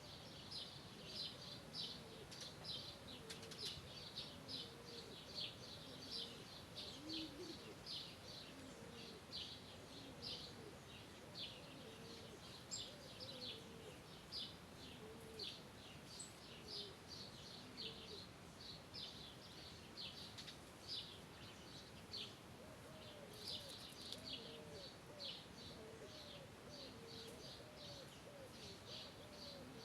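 Birds calling faintly: rapid high chirps repeating steadily, about two to three a second, over a layer of lower, softer calls.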